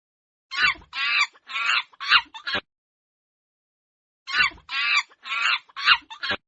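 Chimpanzee calling in two quick bouts of five or six high-pitched hoots each, the second bout starting about two seconds after the first ends.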